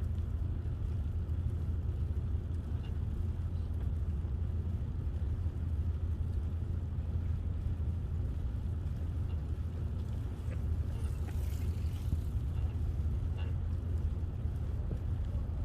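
Steady low rumble of wind buffeting the microphone on a moving bicycle, with a brief hiss about eleven seconds in.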